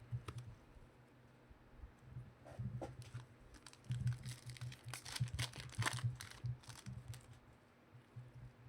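Trading card pack wrappers crinkling and tearing as cards are handled, busiest from about four to six and a half seconds in, over a low steady hum.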